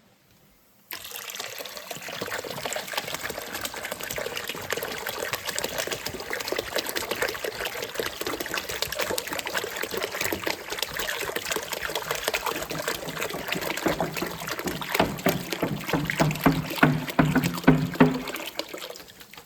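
Water pouring steadily and splashing into a bucket. It starts about a second in and stops shortly before the end, with a lower gurgling near the end as the jug empties. This is distilled water being poured in to rinse leftover vinegar out of a tankless water heater.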